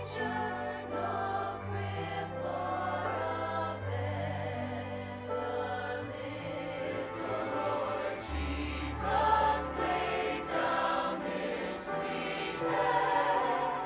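A choir singing a song with instrumental accompaniment: sustained, slowly changing notes over a steady bass line.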